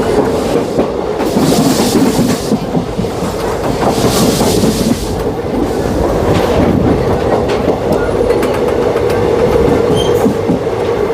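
Okha–Ernakulam Express passenger train running, its wheels clattering over the rail joints above a steady, loud rumble.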